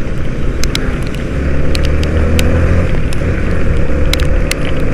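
Motorcycle running on the road, its engine a steady low drone that grows stronger about a second in, under wind and road noise, heard through an action cam's waterproof case. Scattered sharp ticks sound throughout.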